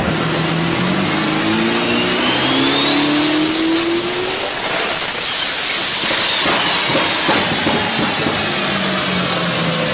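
Turbocharged car accelerating hard: the engine note climbs while a high turbo whistle rises alongside it, peaks about five seconds in, then falls away as the throttle comes off.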